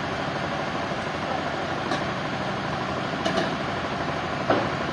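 Sawmill machinery running steadily with a low engine-like hum. Three short knocks come through it, about two, three and four and a half seconds in, the last the sharpest.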